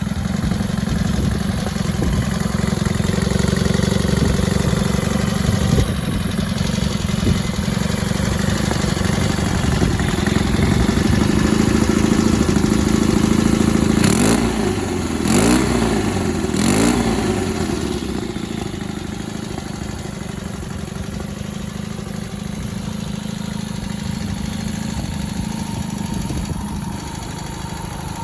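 Honda CL72 250 cc parallel-twin engine idling steadily, blipped three times in quick succession about halfway through, then settling back to a slightly quieter idle. The engine has been stalling at idle since a carburetor overhaul.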